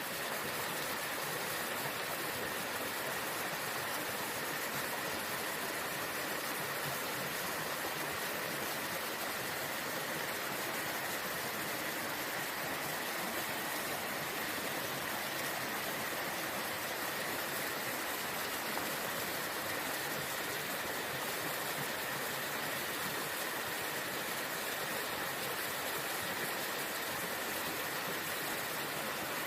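Waterfall: water falling and rushing with a steady, unbroken sound that holds an even level throughout.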